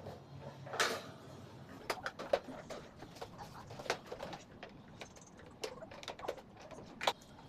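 Hand tool clicking and tapping against the plastic housing of an electric table fan being taken apart: irregular light clicks, with louder ones about a second in and near the end.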